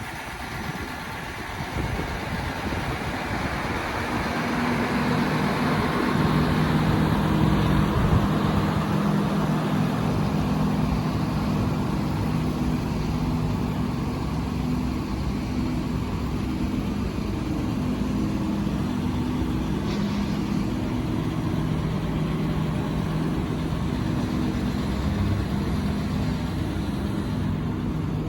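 Ford 6.7L Power Stroke V8 turbodiesel of a 2017 F-550 dump truck running at a steady speed. It grows louder over the first several seconds, then holds steady.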